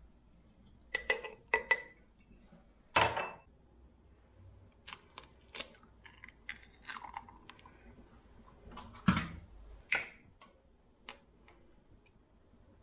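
Small objects being handled: a scattered series of knocks, clicks and light clinks, the loudest about three seconds in and again about nine seconds in.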